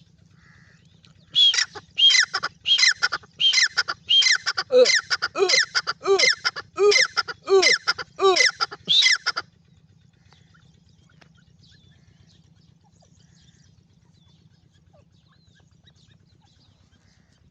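Francolin (teetar) calling: a loud series of about a dozen repeated harsh notes, roughly one and a half a second, which starts about a second and a half in and stops abruptly about nine seconds in.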